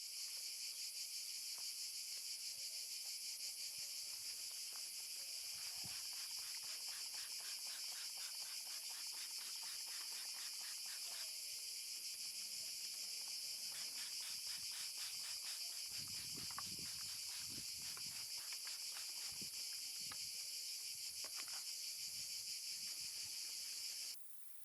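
Insects chirring outdoors: a dense, steady, high-pitched trill made of very fast pulses that cuts off abruptly near the end, with a few faint low knocks partway through.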